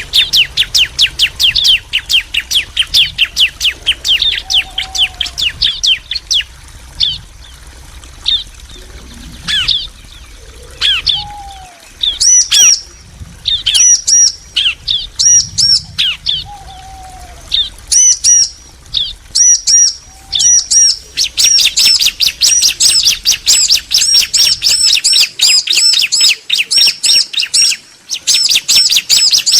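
Bar-winged prinias (ciblek), male and female, calling back and forth in rapid series of high chirps: a fast run at first, sparser chirps through the middle, then a long fast run in the last several seconds.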